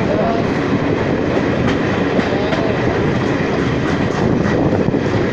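Garib Rath Express train running on the rails: a steady rumble with scattered clicks of the wheels over the rail joints.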